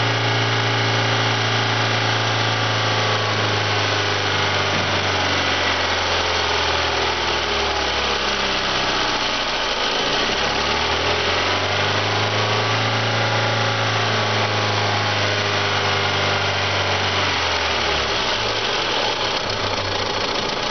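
2001 Kia Rio four-cylinder engine running on a test run at a steady, idle-like speed. Its speed sags twice, slowly dropping and then climbing back.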